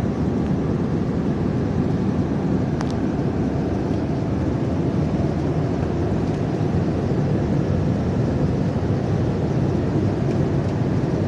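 Steady cabin noise of a passenger airliner, the hum of the engines and rush of air heard from inside the plane.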